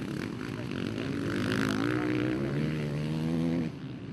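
Motocross motorcycle engine revving hard, its pitch climbing as the bike accelerates, then falling away abruptly near the end.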